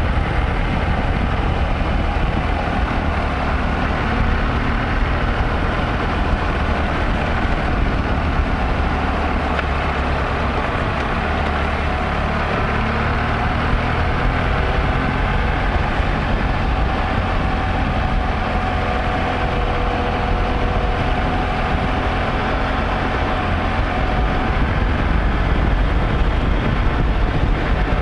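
Motorcycle riding along at steady speed: the engine's drone with a faint pitch that drifts slowly, under a heavy rush of wind on the microphone.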